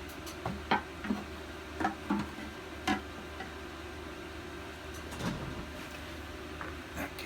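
Scattered light clicks and knocks of small engine parts being handled and set down on a workbench, several in the first three seconds and a few more later, over a steady low hum.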